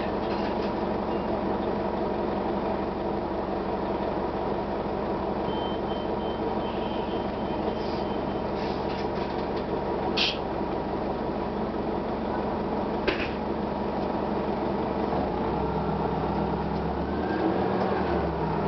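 1999 Gillig Phantom transit bus running, its Detroit Diesel Series 50 diesel engine giving a steady drone, with two sharp knocks or rattles partway through. Near the end the engine and drivetrain pitch starts rising as the bus pulls away.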